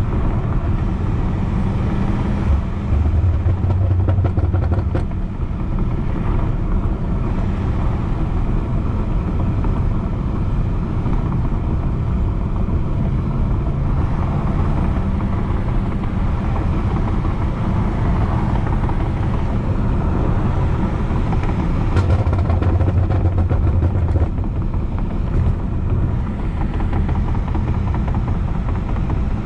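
BMW F90 M5 Competition's twin-turbo V8 with a loud exhaust, running steadily while cruising. The low exhaust drone swells briefly about three seconds in and again about 22 seconds in.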